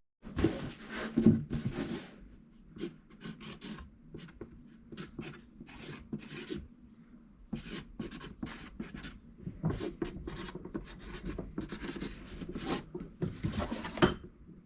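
Irregular rubbing and scrubbing strokes of a sponge being worked over a car's bodywork, with a few louder scrapes near the start and just before the end.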